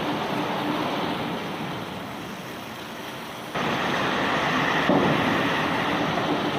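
Steady rumbling noise of rock-unloading machinery. It jumps suddenly louder about halfway through, and there is a single thump a little later.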